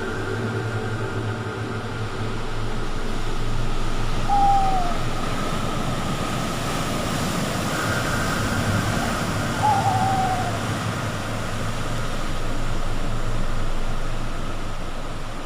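Steady rushing of sea surf, with two short falling calls about four and ten seconds in.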